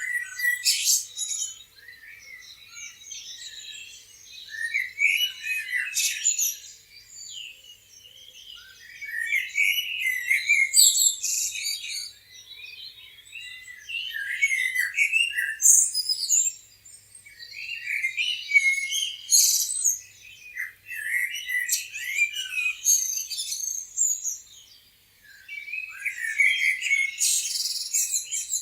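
Several songbirds chirping and singing at once, a dense mix of overlapping high-pitched chirps and trills that swells and eases with short lulls.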